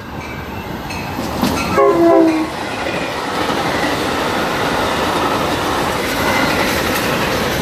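Metra commuter express train sounding a short horn blast about two seconds in, then passing at speed with a loud, steady rush of wheels and rails that builds and holds.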